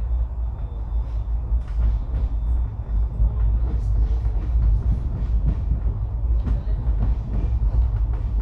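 Passenger train running at speed, heard from on board: a heavy, steady low rumble with scattered clacks and knocks of the wheels over the rails.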